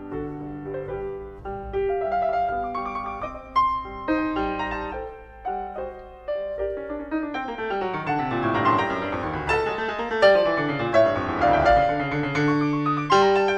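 Background piano music: struck notes with a sustaining ring, growing busier and fuller in the second half with runs sweeping down and up.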